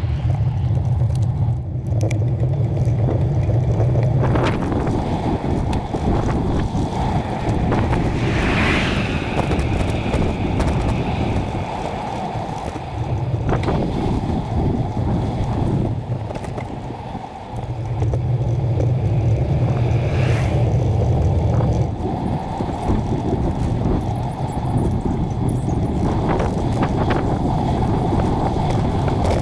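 Wind rumbling on the microphone of a camera on a moving bicycle, with road traffic. Vehicles pass about 9 seconds in and again about 20 seconds in.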